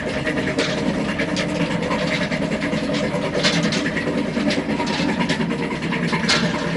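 Petter diesel engine running steadily, with a fast rough beat and scattered sharp ticks.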